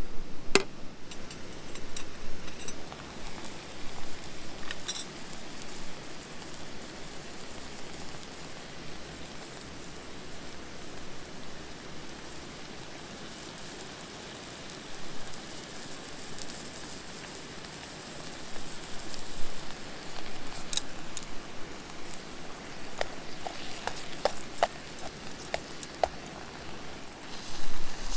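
Wood campfire crackling over a steady hiss, with scattered sharp pops and a quick run of small ticks near the end.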